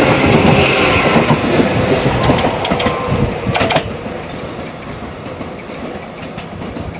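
Tobu 300 series electric train running past close by and pulling away: wheel and rail noise, loud at first with a short clatter about three and a half seconds in. After that it falls to a fainter rumble as the train draws off down the line.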